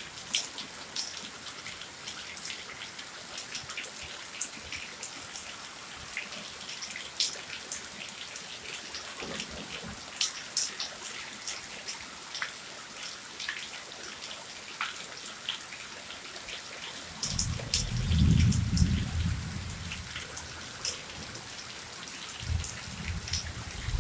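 Heavy rain falling on a street: a steady hiss with many sharp ticks of drops striking close by. About seventeen seconds in, a low rumble rises for about three seconds, the loudest sound here, and a shorter one comes near the end.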